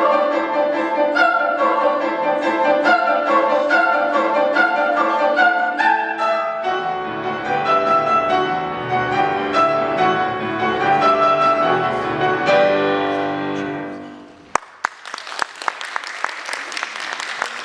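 Piano playing the closing bars of a classical song accompaniment, dying away about fourteen seconds in, then audience applause.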